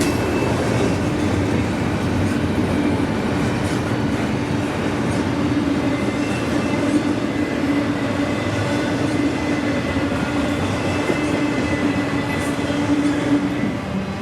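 CSX intermodal freight train rolling past at a steady pace: a continuous rumble of wheels on rail with a steady low drone and faint thin wheel squeal.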